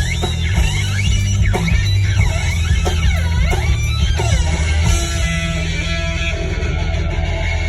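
Music led by an electric guitar over a steady heavy bass. For the first few seconds the guitar notes swoop up and down in pitch, then settle into steadier held notes.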